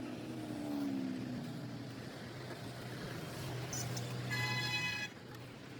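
Road traffic: a vehicle engine passing with its pitch falling, over a steady low hum. A horn sounds briefly about four seconds in.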